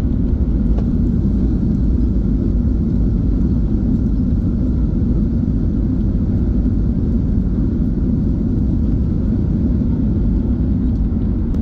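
Steady low rumble inside the cabin of a Boeing 737 rolling on the ground after landing: engine and airflow noise with the wheels on the pavement, unchanging throughout.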